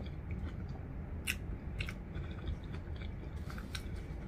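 A person chewing a mouthful of burger with her mouth closed, close to the microphone, with a few scattered soft wet clicks from the mouth and food.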